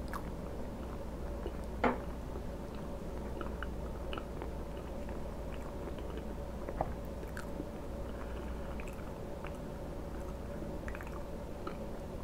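Close-miked chewing: a mouthful of food worked with the lips closed, with small wet mouth clicks throughout. A sharper click about two seconds in and another near seven seconds. A faint steady hum sits underneath.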